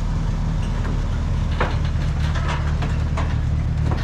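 A vehicle engine idling steadily, with several sharp knocks or clanks over it from about a second and a half in.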